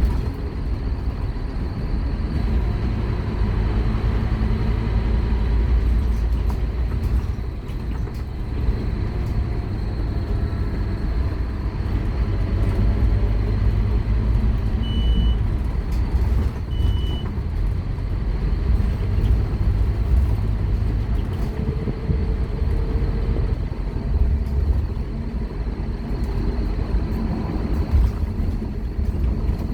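Scania K230UB Omnilink single-deck bus's five-cylinder diesel engine running under way, with steady low rumble. Two short high beeps sound about halfway through.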